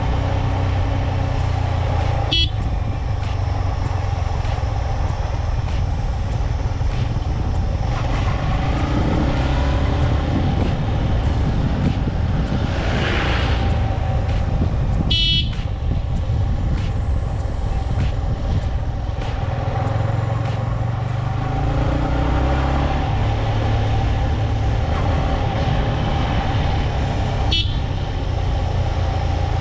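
Motorcycle running steadily on the ride, with a low rumble of wind on the microphone. The horn beeps briefly three times: about two seconds in, about halfway and near the end.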